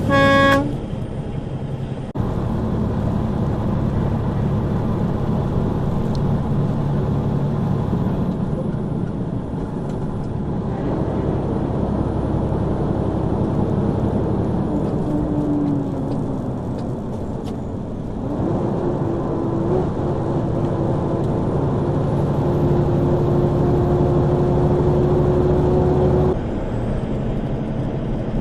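A truck engine running steadily, heard from the cab. Its note changes in steps several times, and near the middle a higher whine rises slowly for several seconds. It opens with a brief, loud horn blast.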